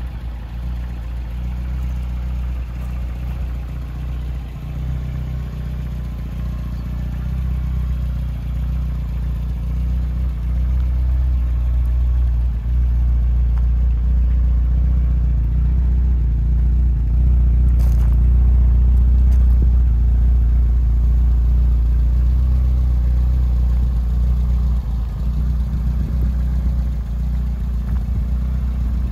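BMW E30 M3's S14 four-cylinder engine idling steadily, a low, even exhaust note that grows louder in the middle, when the car's rear is closest.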